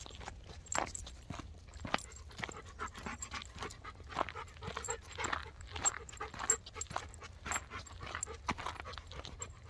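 A dog panting in short breathy bursts, with scattered small clicks and knocks.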